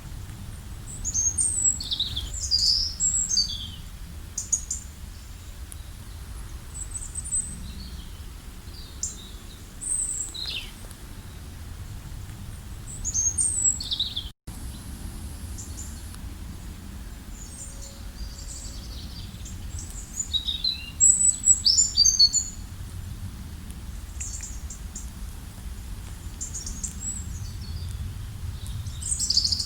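Small songbirds chirping and trilling in bursts of high, quick notes, busiest at the start and again about two-thirds of the way in, over a steady low rumble. The sound cuts out for an instant about halfway through.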